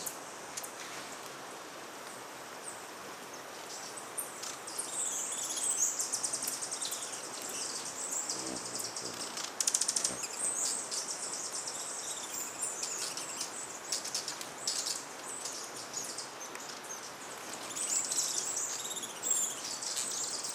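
Several hummingbirds at feeders giving high, rapid chittering and squeaky calls, which pick up about four seconds in and come in flurries, with the buzz of wings as they dart about.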